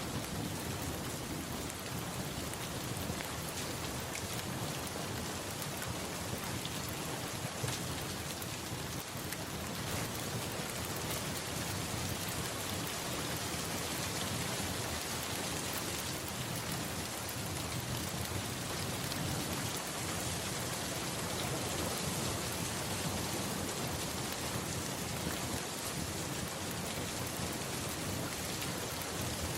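Steady rain falling on a surface, with a low rumble of thunder underneath.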